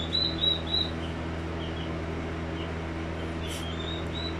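A small bird chirping: a quick run of short, high, slightly rising chirps in the first second and another run near the end, over a steady low electrical hum.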